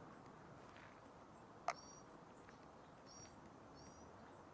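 Near silence with faint, short, high chirps from small birds, heard three or four times, and one sharp click a little under two seconds in.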